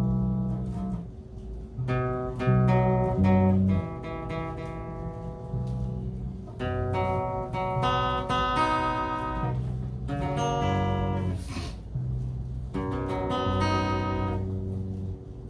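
Acoustic guitar strumming chords, with the chords changing every second or two.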